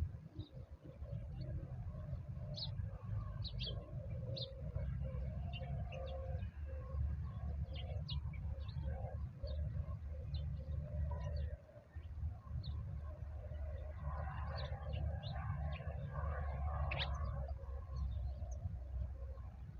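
Wild birds calling: many short, high chirps scattered throughout, with lower calls mixed in and a busier stretch about three-quarters of the way through, over a steady low rumble.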